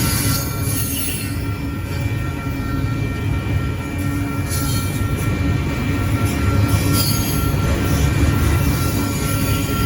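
Train rolling past: a heavy, steady rumble with a thin, steady high-pitched squeal from the wheels, and a few brief hissy flares.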